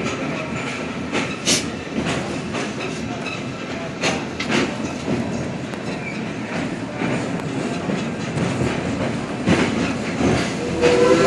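Train running along the track heard from inside a caboose: a steady rumble of wheels on rail with clickety-clack and sharp knocks from rail joints and the cars rattling every second or few.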